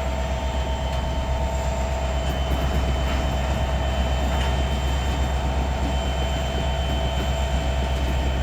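Freight train moving slowly during car-count switching: a steady low rumble with thin, steady squealing tones from the wheels and a few faint clanks.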